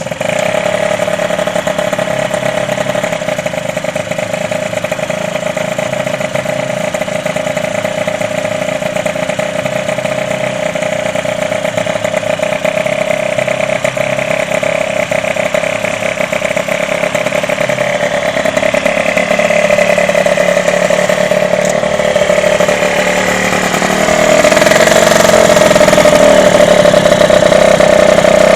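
Derbi DRD's small two-stroke engine catching right at the start and running on its first start after a full rebuild, with a steady high-pitched note. The pitch shifts about two-thirds of the way in, and the engine gets louder as it is revved up near the end.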